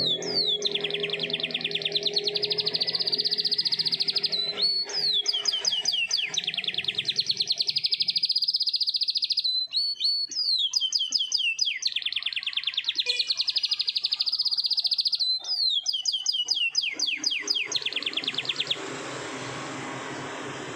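Domestic canary singing long rolling song: four phrases, each opening with a few quick downward-sweeping notes and running into a long, fast, even trill, with short breaks between them. The song stops near the end, leaving a steady hiss.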